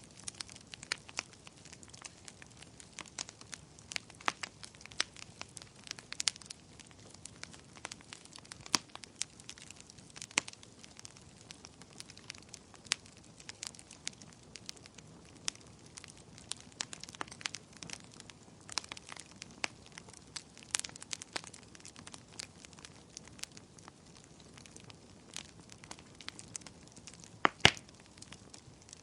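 Wood campfire crackling: irregular sharp pops and snaps over a low steady hiss, with one louder pop near the end.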